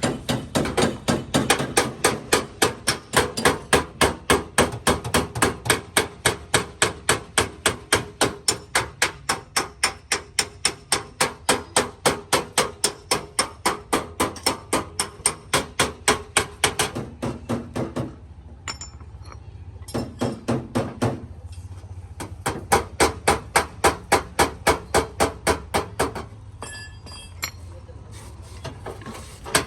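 Steady, rapid hammer taps on the sheet metal of a Chevrolet Optra's body panel, about three a second, as a dent is worked out in paintless dent repair. The tapping breaks off briefly twice, about two-thirds of the way through and again near the end.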